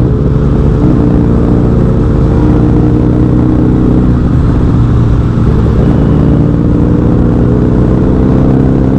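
Several motorcycle engines running together at steady riding revs, their tones overlapping with slight rises and falls in pitch, over a constant low rumble.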